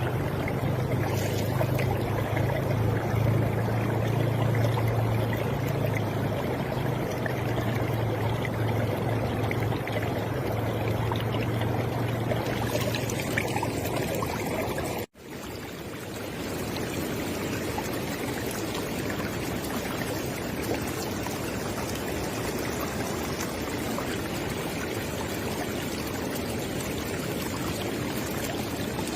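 River water flowing steadily, with a low rumble under it in the first half. About halfway it drops out for an instant and cuts to another stretch of flowing water.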